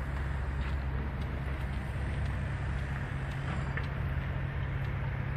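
Steady low engine rumble with outdoor background noise, a few faint ticks over it.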